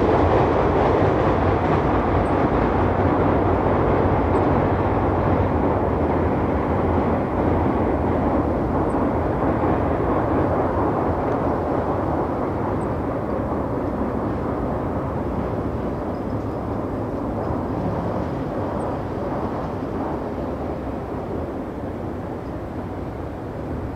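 Train running along the line, a steady rumble that slowly fades away.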